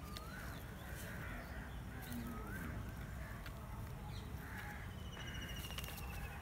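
Birds calling in the background: a few short rough calls, two short rising whistled notes, and a fast falling trill near the end, over a steady low outdoor rumble.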